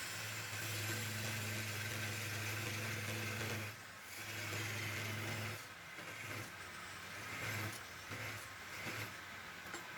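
Electric power tool motor running with a steady low hum and a hiss: one long run of about three seconds, a shorter run, then several brief bursts as it is switched on and off.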